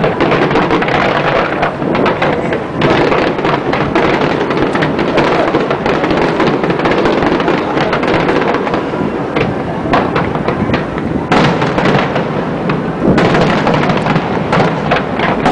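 Aerial fireworks display: a dense, continuous barrage of shell bursts and crackling, one bang on top of the next with no pause.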